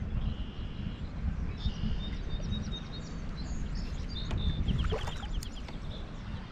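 Wild birds chirping and calling in a run of short high notes, with a quick trill of falling notes near the end, over a steady low rumble.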